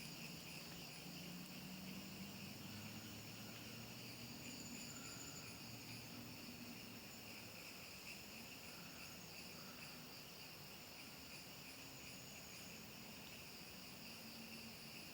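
Faint, steady chorus of crickets and other insects trilling at several high pitches at once, one of them a quick, evenly pulsed chirp, over a faint low hum.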